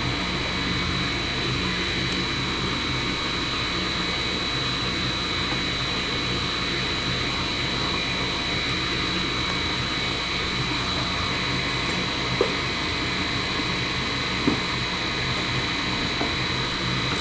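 Rheem gas furnace running after firing up: a steady rush of air and motor noise, with a constant high whine and a low hum. Two light clicks come near the end.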